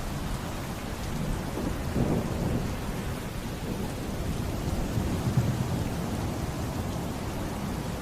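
Steady heavy rain with thunder rumbling low underneath, swelling louder about two seconds in and again around five seconds.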